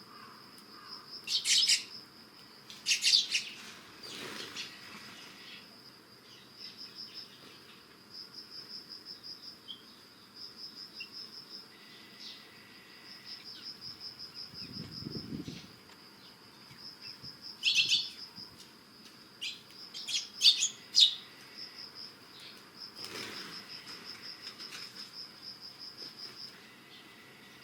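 Eurasian tree sparrows chirping in short bursts several times, over an insect's steady pulsing trill. There is a soft low thud about halfway through.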